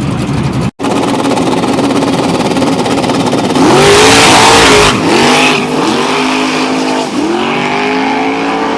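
Drag race car at full throttle: a loud burst of noise about four seconds in, then the engine pitch climbing and dropping back several times as it shifts up through the gears.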